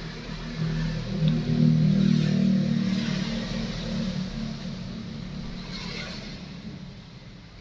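A motor vehicle's engine passing by. It swells to a low drone within the first second or so, stays loudest for about three seconds, then fades away.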